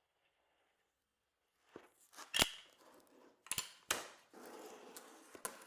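Workshop handling sounds: after a quiet start, about five sharp clicks and knocks, with a short rustling hiss between them a little past the middle, as foam mould pieces are assembled and worked.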